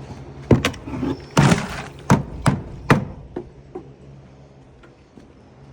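A feed bucket banged hard several times to knock wet horse feed out into a feeder: about seven sharp thunks and knocks over three seconds, with a short scraping rush among them, then it goes quiet.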